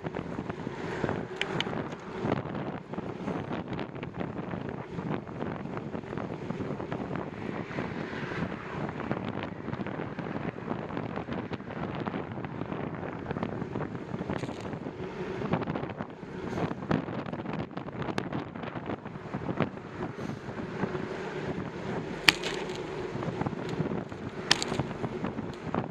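Wind buffeting the microphone on a moving bicycle, a steady rushing noise with scattered small knocks and rattles, and two sharp clicks near the end.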